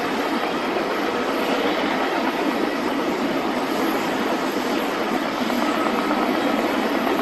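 Boeing 777 freighter's GE90 jet engines heard as a steady, loud rush of noise with a faint high whine running through it.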